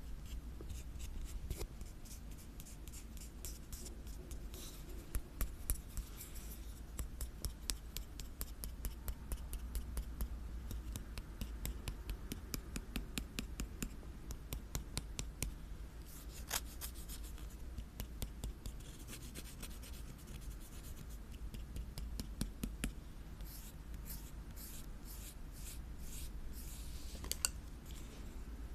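Close-miked ASMR scratching and tapping on an object: a steady run of sharp little clicks and scratchy strokes, with a quicker run of crisp taps near the end.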